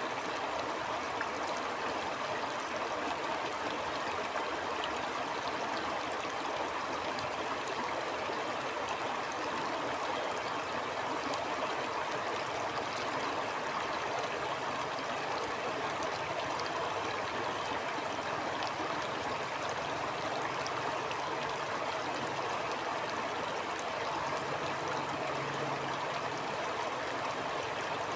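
Stream water flowing and burbling steadily, with fine splashing and trickling over the top.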